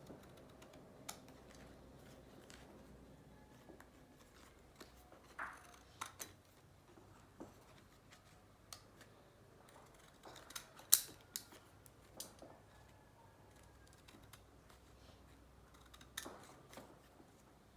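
Scissors cutting paper: scattered, irregular snips and clicks, the loudest about eleven seconds in.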